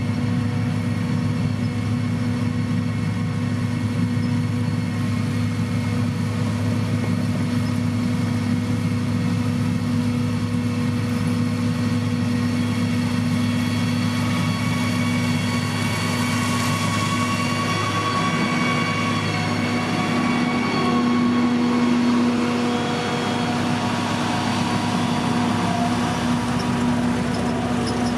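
Heavy construction machinery engine running steadily with a constant low hum, swelling slightly louder about two thirds of the way through.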